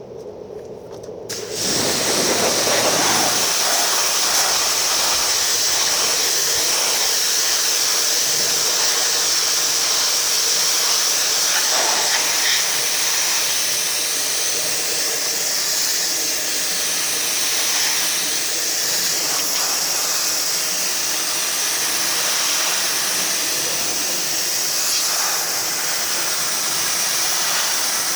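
2200 psi electric pressure washer spraying: a steady, loud hiss of the high-pressure water jet that starts suddenly about a second and a half in.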